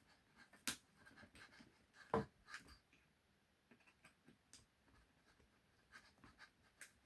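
Faint, sparse clicks and scrapes of a small screwdriver and hands working on a plastic RC car chassis, with a sharper click early and a duller knock about two seconds in.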